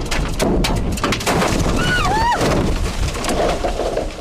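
Irregular hard knocks and bangs over a steady low rumble, with a short wail that rises and then falls about two seconds in.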